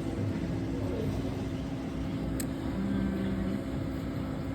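Steady low rumble and hum of indoor background noise, with a single sharp click a little past halfway and a brief low tone just after it.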